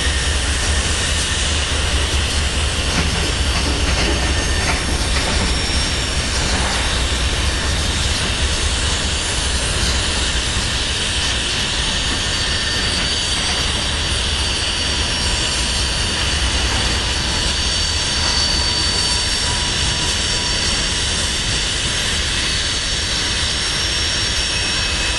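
Tank cars and boxcars of a freight train rolling past with a steady rumble of wheels on rail, with faint high wheel-squeal tones that come and go.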